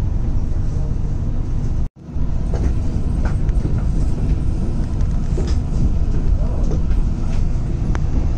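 Steady low rumble of a train heard from inside an air-conditioned double-decker coach, with a few faint clicks. The sound cuts out for a moment about two seconds in.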